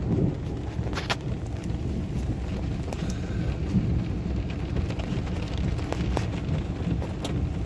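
Heavy rain and 1.5-inch hail falling: a steady low rush with scattered sharp cracks of single hailstones striking, the loudest about a second in.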